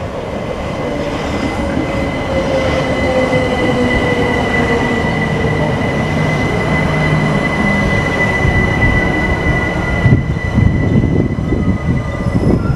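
Southeastern Class 375 Electrostar electric multiple unit running past close by, with a steady high whine and a lower tone that falls in pitch over the first few seconds. It grows louder, with irregular wheel knocks over the rails near the end.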